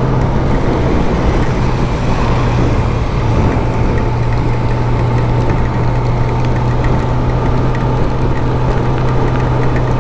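Kawasaki ZX-10R's inline-four engine running steadily at cruising speed, under a dense rush of wind and road noise.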